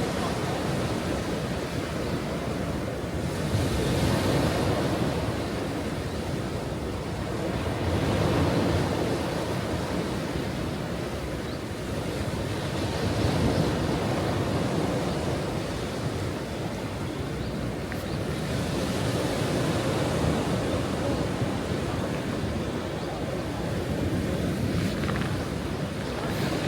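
Ocean waves breaking and washing on a shore: steady surf that swells louder about every five seconds.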